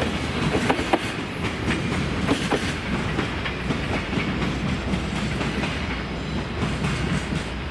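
Container freight train's wheels clacking over rail joints over a steady rumble as the last wagons move off. The clacks are frequent in the first few seconds and then thin out.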